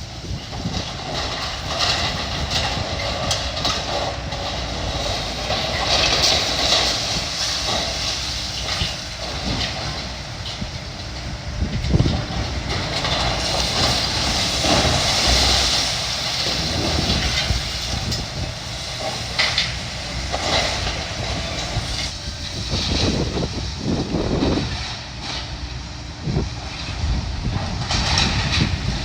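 Heavy demolition machinery tearing down a building: a diesel engine running under load, with repeated crunching, clattering and scraping of falling debris and metal.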